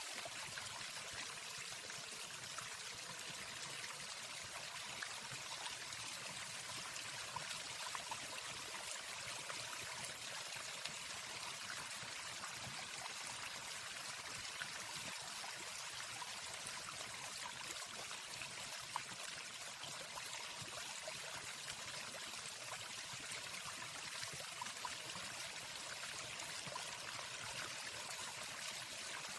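Steady rushing water of a waterfall, an even hiss with no birdsong over it.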